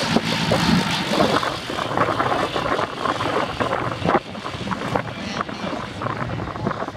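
Boeing PT-17 Stearman's Pratt & Whitney R-985 radial engine and propeller, its steady drone fading out about a second in, leaving an uneven rustling haze with scattered ticks.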